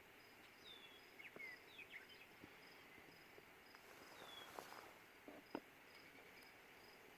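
Faint outdoor morning ambience: an insect chirping in a steady, evenly pulsed rhythm of about three chirps a second, with a few short falling bird calls and light clicks.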